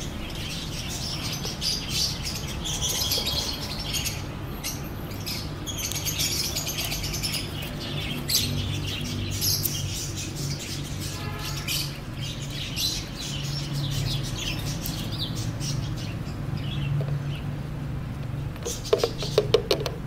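Small birds chirping on and off over a steady low hum, with a quick run of clicks near the end.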